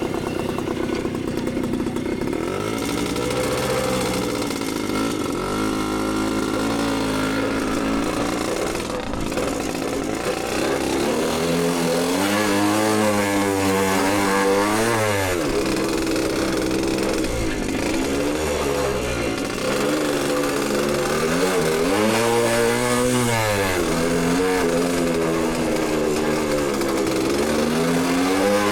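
Dirt bike engine revving as the bike is ridden. The pitch climbs and drops again and again with throttle and gear changes, with sharper, higher revs in the second half.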